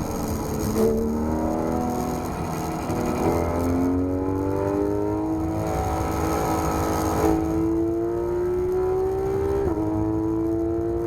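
Porsche 991 GT3 RS's naturally aspirated 4.0-litre flat-six accelerating on track, its pitch climbing steadily as the revs rise and dropping suddenly on a paddle upshift about ten seconds in.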